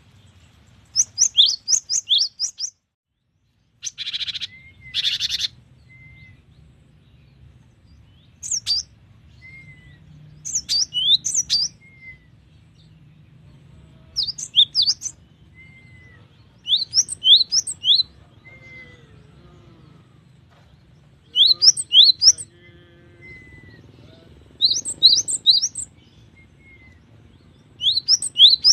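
Cinereous tit (gelatik batu) singing: short phrases of rapid, sweeping high notes, repeated every two to three seconds, with soft single notes between phrases. Two short, harsh noisy bursts come about four and five seconds in.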